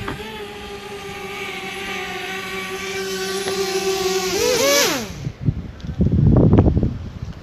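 DJI Spark quadcopter's propeller motors whining steadily, growing a little louder, then spinning down with a falling pitch and stopping about five seconds in, as when the drone lands and cuts its motors. Gusts of wind then buffet the microphone.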